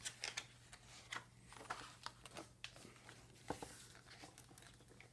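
Faint paper rustling and scattered light clicks of a hardcover picture book being handled and opened, over a low steady hum.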